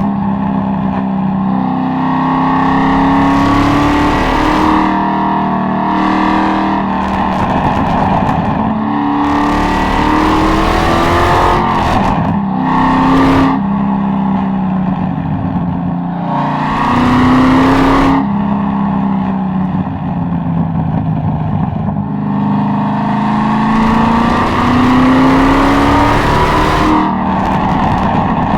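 Chevrolet Corvette C6 Z06's 7.0-litre LS7 V8 pulling through the gears. Its pitch climbs under throttle and then drops back at each shift, over and over, with harsh louder stretches at the top of several pulls.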